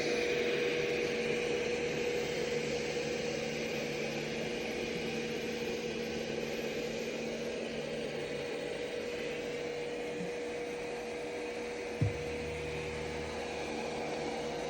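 ECOVACS Deebot X9 Pro robot vacuum running as it vacuums and mops: a steady motor hum with a constant whining tone. A single short knock sounds about twelve seconds in.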